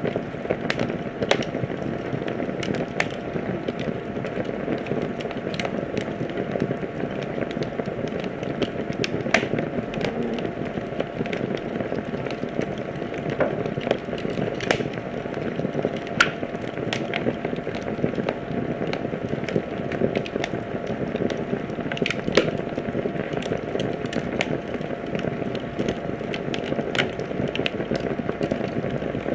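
Fire crackling in a fireplace: a steady low rush of burning with frequent sharp pops and snaps at irregular moments.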